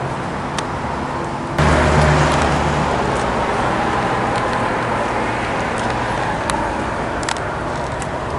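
Outdoor air conditioner condensing units running with a steady fan and compressor hum. About one and a half seconds in, the hum suddenly grows louder and deeper, then eases off slowly.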